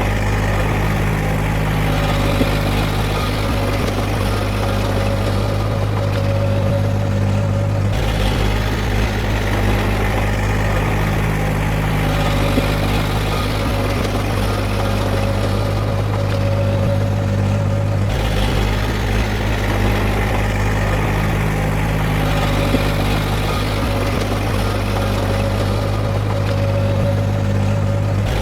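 Heavy diesel engine of earthmoving machinery running steadily with a deep, even hum. The tone shifts abruptly about 8 seconds and about 18 seconds in.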